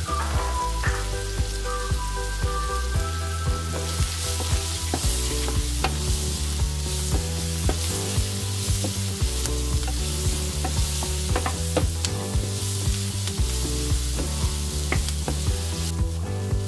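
Chopped onion, chilies and ground spices sizzling in hot oil in a nonstick frying pan, with a wooden spatula stirring and scraping the pan. The sizzle grows louder about four seconds in.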